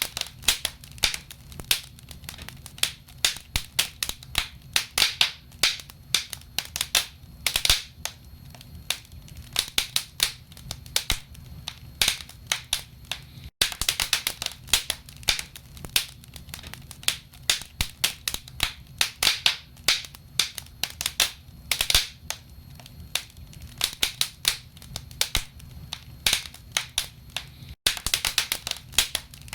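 Wood fire burning in a fireplace, crackling: irregular sharp pops and snaps of the burning logs, several a second, over a low steady rumble. Two brief dropouts break it about fourteen seconds apart.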